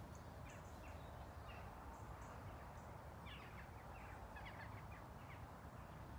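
Faint birdsong: small birds chirping in short, quick calls, busier from about halfway through, over a low steady rumble.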